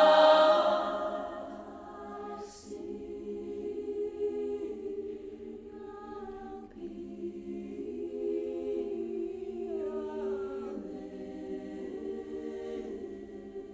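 A cappella choir singing slow, held chords that change every second or two, loud at first and softer from about two seconds in.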